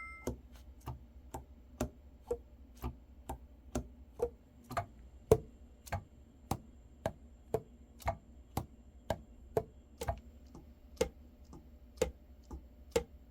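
Steady ticking, about two evenly spaced sharp ticks a second.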